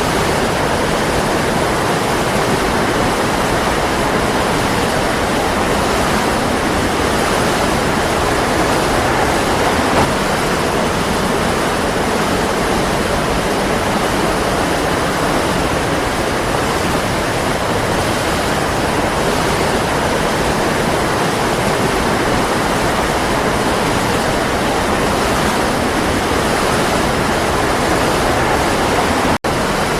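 Waterfall, a steady even rush of falling water, with a momentary break in the sound near the end.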